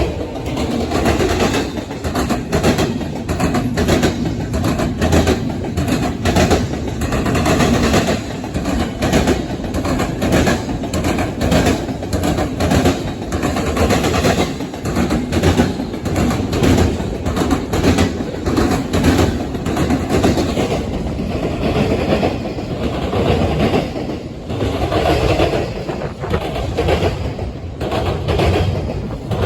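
Norfolk Southern train rolling past, its wheels clicking over the rail joints in a steady, continuous clickety-clack over a low rumble.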